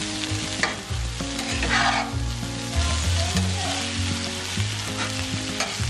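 Cubed potatoes, green peppers and onion sizzling as they fry in a cast-iron skillet, stirred and scraped with a metal spatula, with louder scrapes about one and two seconds in. Soft background music with steady low notes plays underneath.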